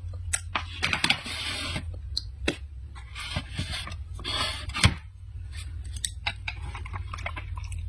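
Utensils and food being handled at the table: sharp clicks and three short rasping scrapes, with a loud click about five seconds in.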